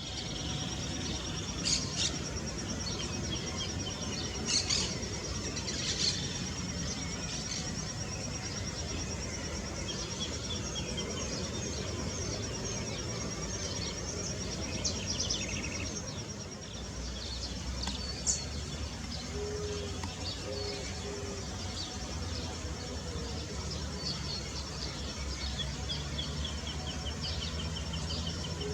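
Outdoor natural ambience: a steady, high, pulsing insect trill with small birds chirping over it, a few sharp chirps standing out. A few short low calls come near the end.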